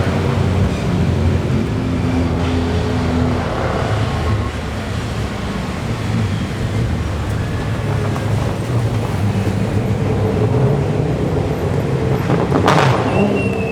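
Classic DTM touring car engines running together at steady, low revs, several at once, with a sharp bang near the end.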